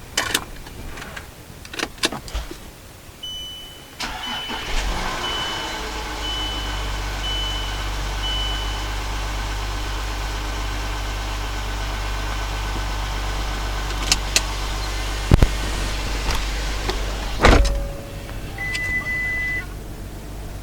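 2012 VW Touareg TDI's 3.0-litre V6 turbodiesel starting about four seconds in, idling steadily, then shut off near the end. A run of about seven short dashboard beeps sounds around the start, and a single longer beep follows the shutdown; a few clicks and knocks come before the engine starts.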